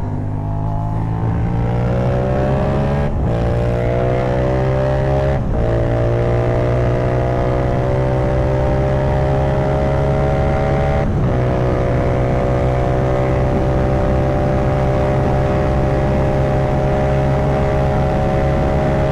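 Yamaha MT-07's parallel-twin engine pulling under acceleration while being ridden, its pitch rising through the gears, with short breaks for upshifts about three, five and a half and eleven seconds in. After the last shift it runs steadily, its pitch creeping up slowly.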